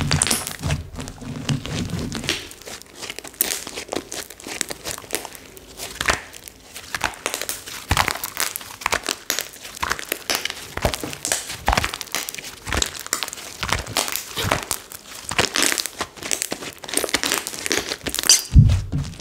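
Slime being squished and worked by hand, making a dense, irregular run of small clicks, pops and crackles, with a low thump near the end.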